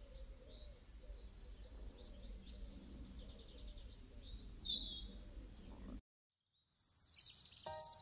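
Garden birds chirping and singing over a low steady outdoor rumble, which cuts off suddenly about six seconds in. After a moment of silence, gentle music with steady repeated notes starts near the end.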